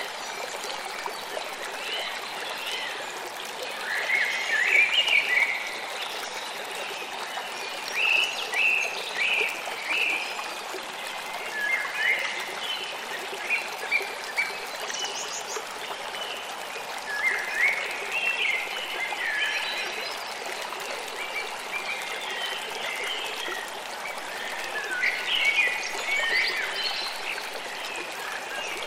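A forest river flowing steadily, with birds singing in short bursts of chirps every few seconds over the water.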